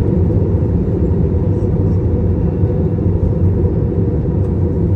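Steady low rumble of a vehicle in motion, even and unchanging throughout.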